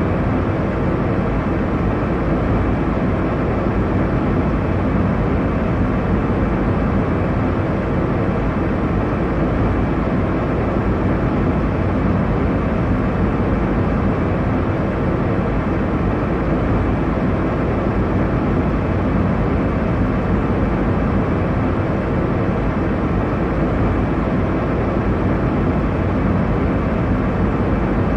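Airliner cabin noise in flight: a steady, even roar of engine and airflow noise, strongest in the low and middle range, with a faint steady hum underneath.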